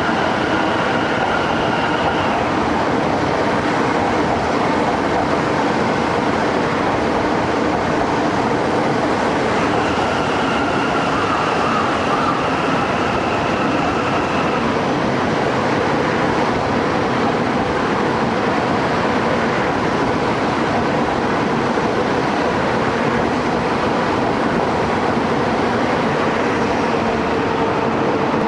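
E3-series Shinkansen train running past on the rails: a steady, loud rumble of wheels and running gear. A high whining tone comes in near the start and again from about ten to fourteen seconds in.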